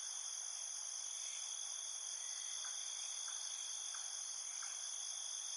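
Steady chorus of insects such as crickets trilling in several unbroken high-pitched bands, with faint soft ticks about every two-thirds of a second.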